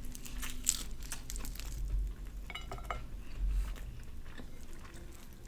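Close-miked chewing and biting of a fried chicken sandwich, with small wet clicks and crunches in an irregular pattern.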